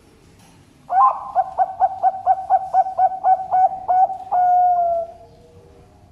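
Zebra dove (perkutut) cooing its song: a quick run of short notes, about four a second, ending in one long, slightly falling note.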